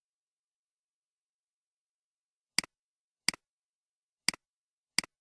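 Four sharp computer mouse clicks, each a quick press-and-release pair of ticks, the first about two and a half seconds in and the rest spaced under a second apart.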